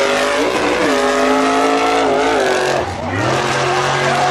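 A car engine revving hard and held at high revs. Its pitch sags and recovers, then dips sharply about three seconds in before climbing back to a steady high note.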